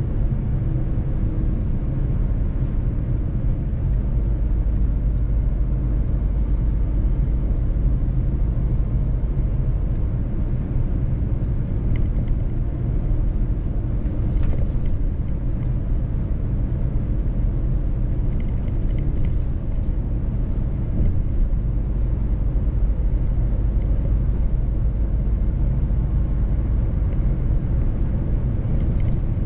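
Mercedes-Benz truck's diesel engine running steadily under way, with a constant low rumble of engine and road noise.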